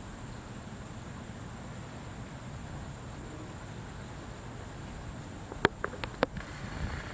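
Quiet outdoor background with a steady faint hiss and a thin, steady high-pitched tone. A few sharp clicks come close together about five and a half to six seconds in.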